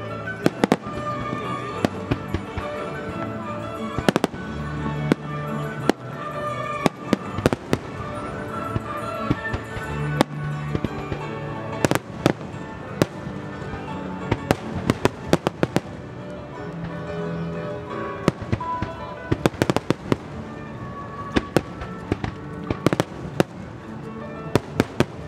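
Aerial firework shells bursting in many sharp, irregular bangs, often several in quick succession, with music playing underneath.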